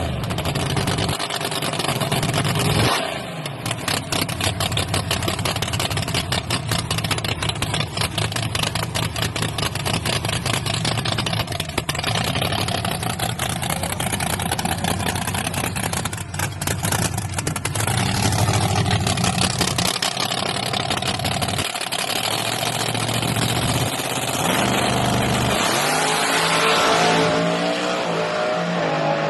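Engines of drag-racing S10 pickup trucks running loudly and revving.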